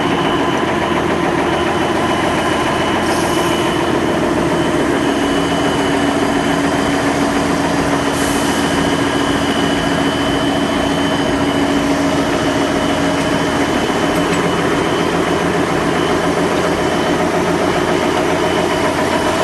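Pet food extruder production line running: a steady, loud machine drone with held whining tones. Two short hisses come about three and eight seconds in.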